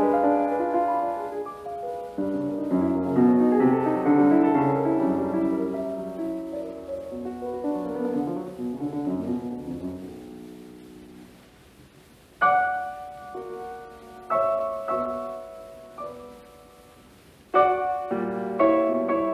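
Solo piano music in a classical style. Full flowing chords fade away over the first half, then single struck chords ring out sparsely, each left to die away.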